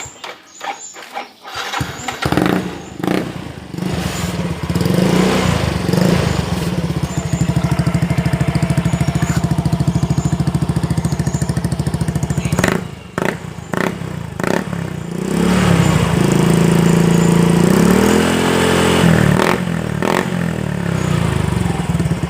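Motorcycle engine with a reworked exhaust muffler, its inner tube stepped down and fitted with a 14 cm perforated baffle to give a deeper, fuller note. It starts about two seconds in and runs with a steady exhaust pulse, briefly dips around the middle, and is revved up and back down near the end.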